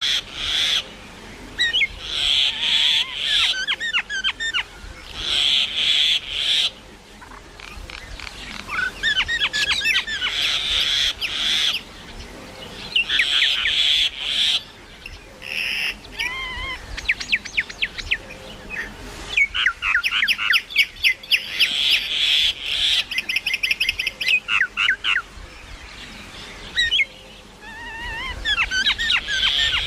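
A myna calling in a long, varied string of phrases: harsh, screechy chatter mixed with gliding whistles, and a fast clicking rattle about two-thirds of the way through. The phrases last about a second each, with short pauses between them.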